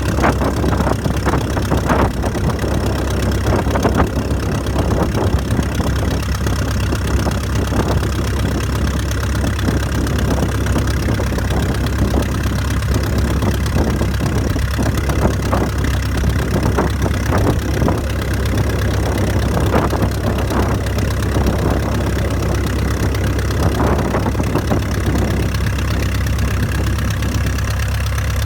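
Vintage de Havilland Chipmunk's four-cylinder Gipsy Major aero engine ticking over at idle, steady and loud.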